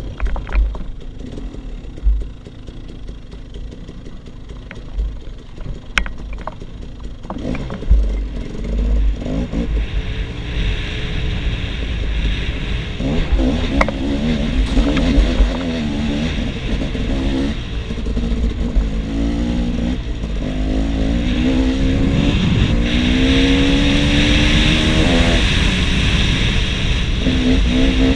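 KTM 300 XC-W two-stroke enduro motorcycle engine revving up and down, its pitch rising and falling. It is quieter for the first several seconds, with scattered knocks and clatter, then runs harder and louder from about ten seconds in, over a heavy low rumble.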